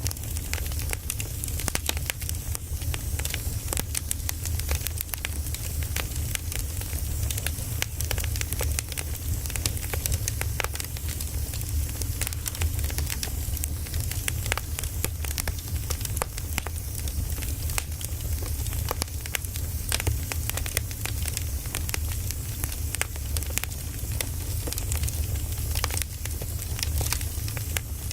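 Firewood burning, crackling and popping many times a second over a steady low rumble and a soft hiss.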